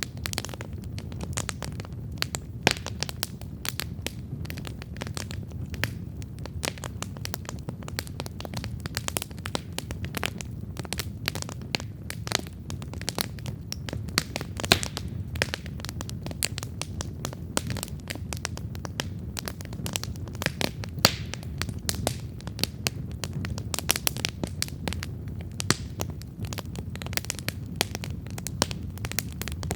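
Wood campfire crackling and popping steadily, dense small snaps with a few sharper pops, over the low rumble of the burning fire.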